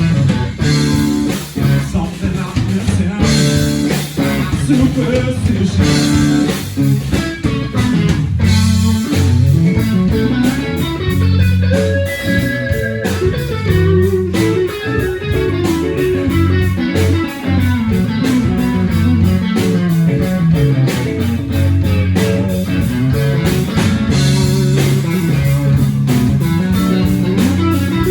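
A live blues-rock band playing, with guitar and bass guitar prominent.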